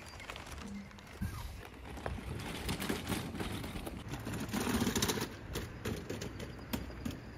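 Low steady background rumble with scattered light clicks and knocks, a little louder about two thirds of the way through.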